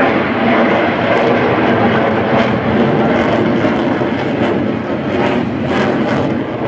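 Military jet aircraft engine noise, loud and steady.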